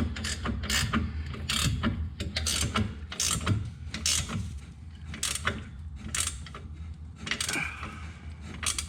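Hand socket ratchet clicking in repeated short strokes at an uneven pace, working the bolts of a car exhaust system, over a steady low hum.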